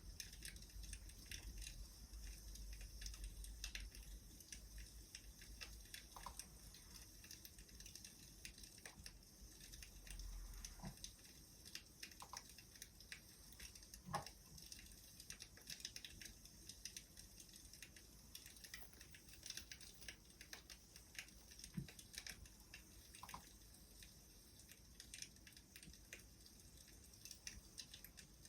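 Wood fire crackling softly: irregular small pops and snaps over a faint hiss, with a sharper pop about halfway through.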